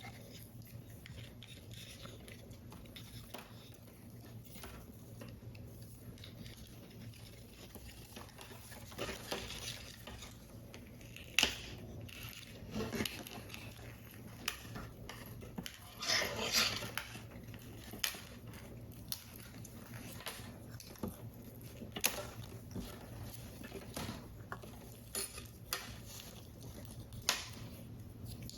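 Small sharp clicks, taps and short paper rustles from hands handling and assembling paper model parts, irregular and scattered, with a busier stretch of rustling just past halfway. A steady low hum runs underneath.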